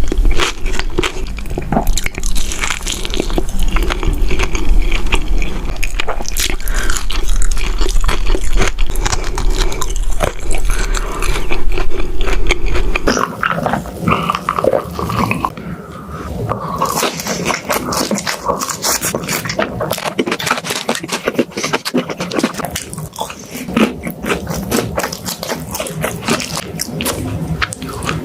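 Close-miked ASMR eating sounds: crunchy bites and chewing, a dense run of crisp clicks and crackles. A low background hum drops out about thirteen seconds in, and the eating sounds carry on.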